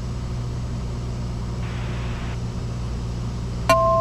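Cessna 172S's four-cylinder engine and propeller droning steadily in flight, heard through the headset intercom, with a brief patch of hiss about two seconds in. Near the end comes a click and then a steady two-tone beep.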